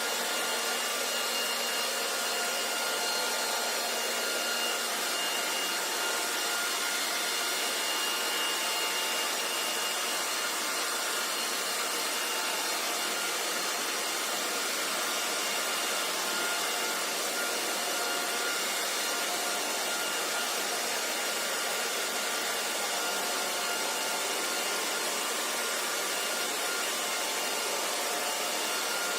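Hair dryer running steadily: a continuous rush of air with a faint, steady whine on top, unchanging throughout.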